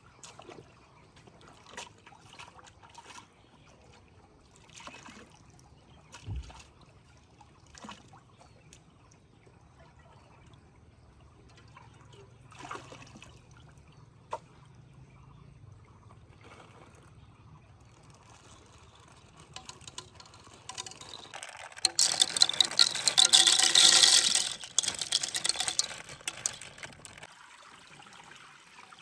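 Liquid pouring into a vessel for about five seconds, starting about three-quarters of the way in. Before it come scattered light clicks and knocks over a low steady hum.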